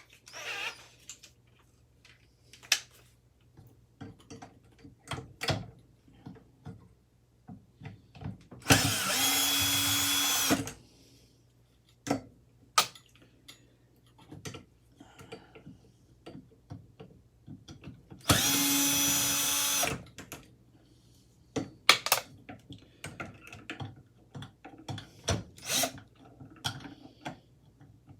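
A handheld power tool runs in two short bursts of about two seconds each, around nine and eighteen seconds in, working stubborn screws on a ceiling fan being taken apart. Sharp metallic clicks and knocks of parts and tools being handled fall in between.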